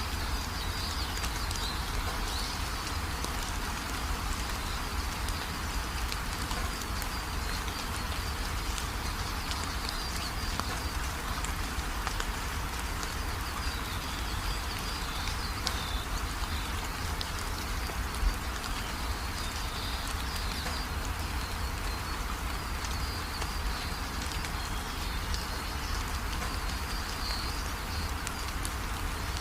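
Steady rain falling, with a low rumble underneath and faint high chirping calls in the background.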